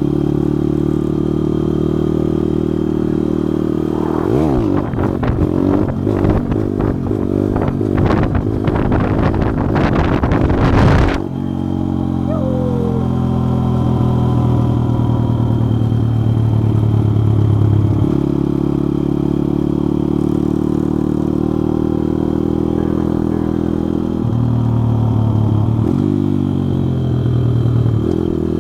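Pitster Pro pit bike's small single-cylinder four-stroke engine running while the bike is ridden, holding steady with a few steps in pitch and rising near the end. From about 4 to 11 seconds a rapid clattering and rubbing noise runs over the engine.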